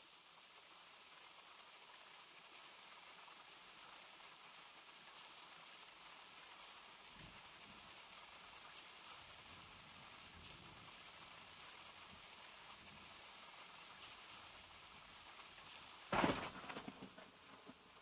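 Steady, faint rain falling, with a fine patter of drops. Near the end a single sudden loud crack breaks through and fades away over about a second.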